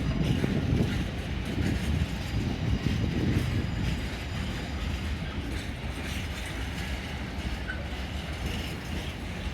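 A train running through the station: a steady low rumble, loudest in the first few seconds and easing off a little after.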